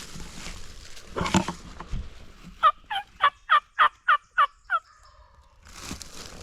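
A run of about eight turkey yelps, roughly four a second, each note breaking downward in pitch, after a brief rustle about a second in.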